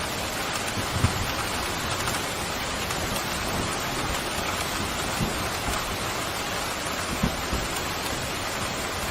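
Steady heavy rain pouring, with a few short, louder low thuds of drops, the first about a second in.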